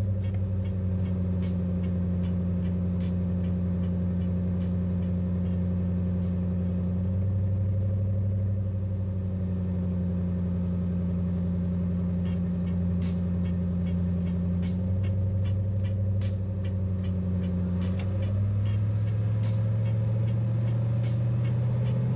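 Car engine idling under a heavy electrical load of about 500 amps from a carbon-pile load tester: a steady low hum whose pitch shifts a few times. About eighteen seconds in there is a click, and the hum steps up in pitch as the load comes off.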